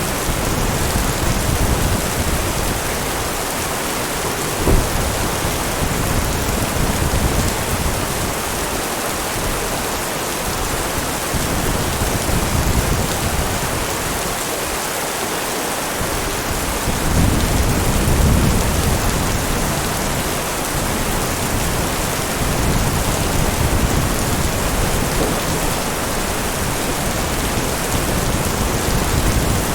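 Steady heavy rain with low rolling rumbles of thunder that swell and fade, the strongest about 17 seconds in. A single sharp knock about five seconds in.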